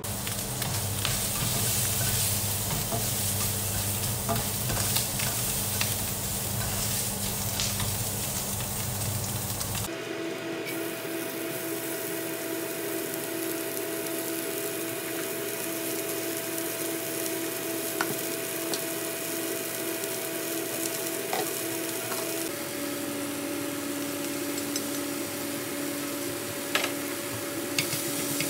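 Bacon pieces sizzling in a nonstick frying pan, stirred and scraped with a plastic spatula, then chopped pak choi and cooked rice frying in the same pan as they are stirred. A steady hum runs under the sizzling from about a third of the way in.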